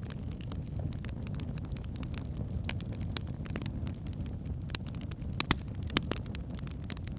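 Logs burning in a fireplace: a steady low rumble of flames with scattered sharp crackles, and two louder pops a little past the middle.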